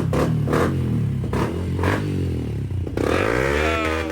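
110 dirt bike with a new Yoshimura exhaust, spark arrestor removed, running cold and uneven with a few sharp pops, then revved up about three seconds in and held high. The engine is still cold and needs warming up.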